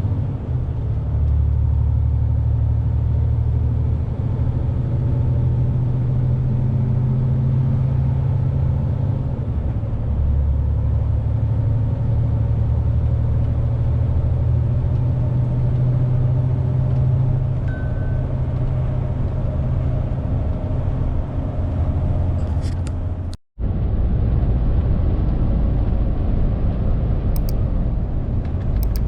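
Lorry engine and road noise heard inside the cab while driving, a steady low drone. The sound drops out for an instant about 23 seconds in, then the drone carries on.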